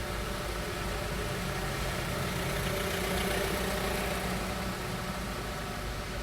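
Car engine running with a steady mechanical hum, slightly louder about halfway through.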